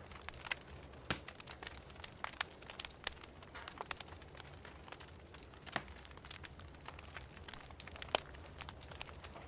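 Wood fire crackling in a fireplace: irregular sharp pops and snaps, a few louder ones about a second in and near the end, over a low steady rumble.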